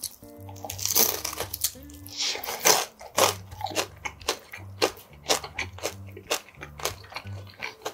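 Close-miked eating: crunchy bites into a crisp pan-fried dumpling, then repeated chewing clicks as it is chewed, the loudest crunches about a second in and again around two and a half seconds in.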